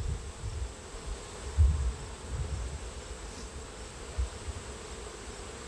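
Honeybees buzzing steadily around an open hive, a faint even hum, with a low rumble on the microphone that swells about one and a half seconds in.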